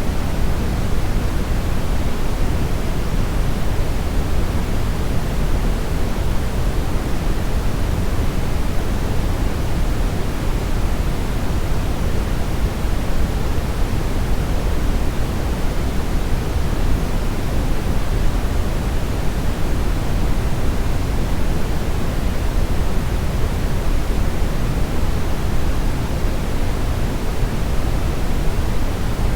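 Steady, unchanging synthetic brown-tinted noise: an even hiss-rumble, strongest in the low end and rolling off toward the highs.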